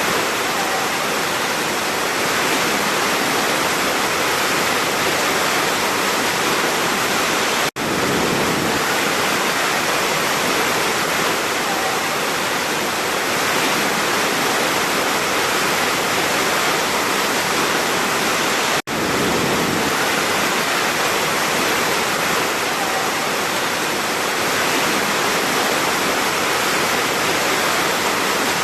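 Large waterfall: a steady, dense rush of falling water. The sound cuts out for an instant twice, about a quarter and two-thirds of the way through.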